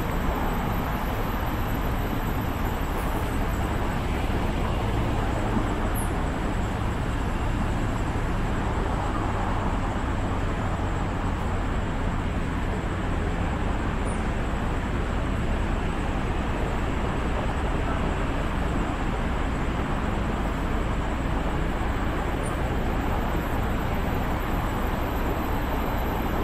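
Steady, even hum and rushing noise of a stationary electric train standing at the platform, with no sudden sounds.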